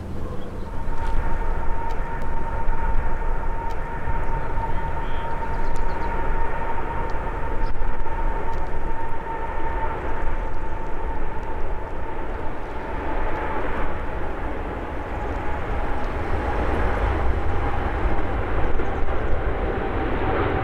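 Jet engines of a Boeing 777-200LR airliner running at high power: a deep rumble with a steady whine that slowly falls in pitch as the aircraft moves past.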